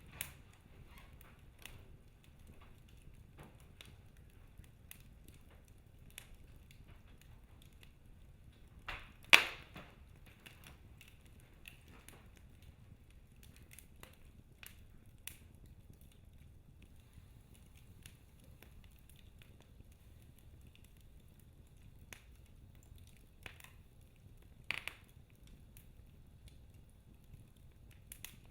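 Wood fire burning in a fireplace, crackling with scattered small snaps and two louder pops, the loudest about nine seconds in and another near 25 seconds.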